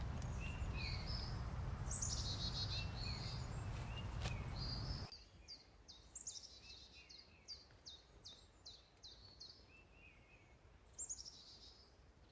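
Small birds chirping and calling over a low steady background rumble; about five seconds in, the rumble cuts off abruptly and the birdsong carries on alone as a run of quick, repeated chirps, about two a second, with a few more calls near the end.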